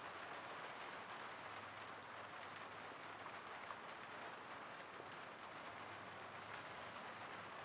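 Steady rain falling, a faint even hiss of drops, with a single light tap a little over three and a half seconds in.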